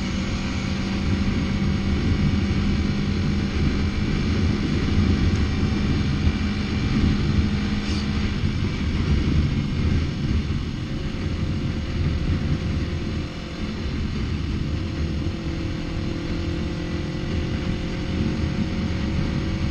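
Motorcycle engine running at a steady cruise while riding, heard over a dense rumble of wind on the microphone; its note shifts lower about eight seconds in.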